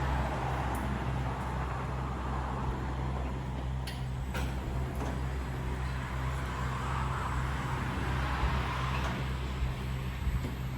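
WashTec SoftCare Pro Classic rollover car wash running: a steady low motor hum under a wash of brush and spray noise that swells and fades twice, with a few sharp clicks in the middle.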